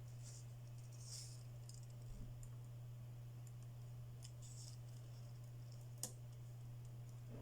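Faint, scattered clicks and light rustles from handling small phone parts and tools, with one sharper click about six seconds in, over a steady low hum.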